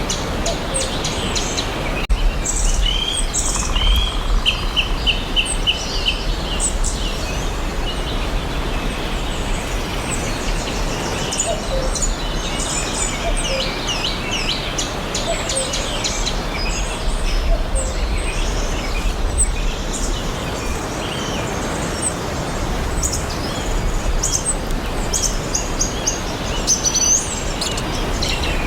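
Several songbirds chirping and singing at once in a forest, many short high chirps overlapping, with a quick run of repeated notes a few seconds in. A steady low rumble of background noise lies under the birdsong.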